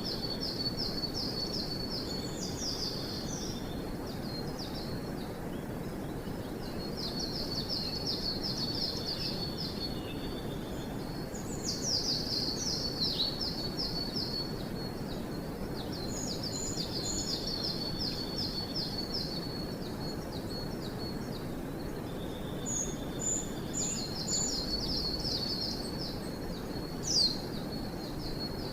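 Forest songbirds singing: bouts of rapid, evenly repeated high notes, several in a row with short pauses between, plus a few higher short calls, over a steady low background rush.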